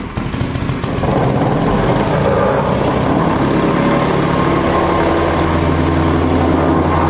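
A hand earth compactor's motor starts up about a second in and then runs steadily at an even speed.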